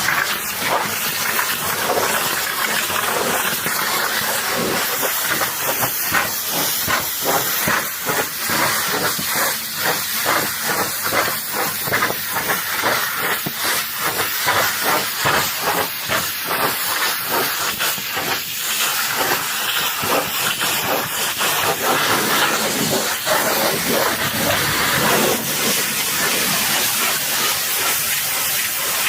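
High-pressure washer spraying water onto a truck: a steady loud hiss that flutters rapidly through much of the middle.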